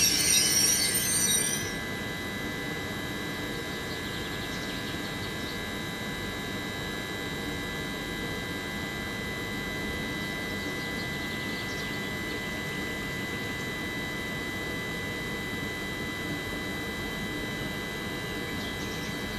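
Stationary TER regional electric train at a platform: a high brake squeal from its stop dies away within the first two seconds, then its onboard equipment runs with a steady hum and several steady high tones.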